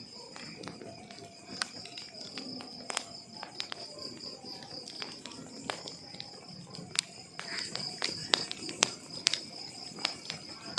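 Wood fire crackling: irregular sharp pops and snaps from burning logs, a few louder ones towards the end, over a soft low rush of flame. A steady thin high-pitched tone sounds underneath throughout.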